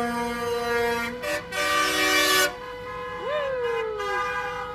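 Many truck and car horns honking together at once, several steady tones at different pitches overlapping and sounding for long stretches. About two seconds in there is a loud, hissing blast lasting under a second. Just after three seconds, a short whoop rises and then falls in pitch.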